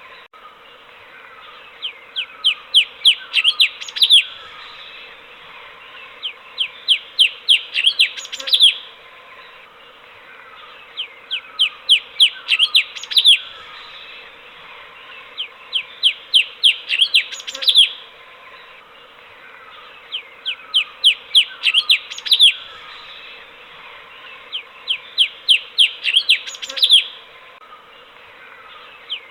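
Light-vented bulbul (cucak cungkok) singing in repeated bursts: each burst is about two seconds of quick, sharp down-slurred notes, and a new burst comes roughly every four and a half seconds, over a faint steady hiss.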